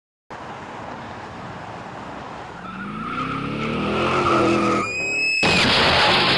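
Car noise with an engine revving higher from about two and a half seconds in, then a short high tyre squeal, then a sudden switch to louder road noise.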